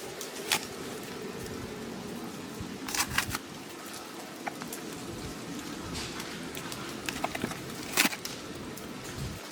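Wood fire burning in a fire pit: scattered sharp pops and crackles over a steady low rush.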